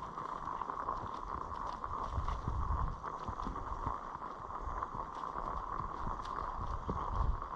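Wind buffeting the action-camera microphone in an uneven, gusting rumble, with scattered faint clicks and ticks over it.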